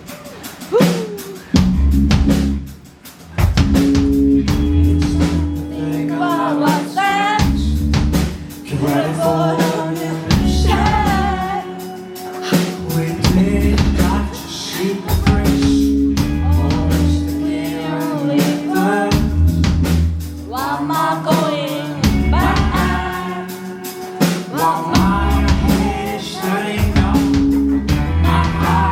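Rock band playing live, with drum kit, bass and guitars. The lead singer's voice comes in a few seconds in.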